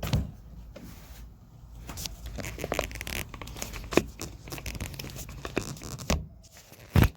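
Old car carpet being pulled up from the floor pan, with tearing and crinkling noises and a few sharp knocks, the loudest near the end.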